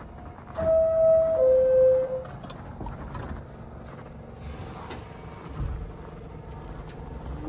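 A two-note descending chime on a stopped New York subway train, high note then low note, about a second and a half in all: the door-closing chime. A low rumble from the train grows stronger in the last couple of seconds.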